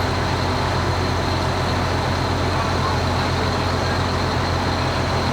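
A large vehicle's engine running steadily with a constant low hum.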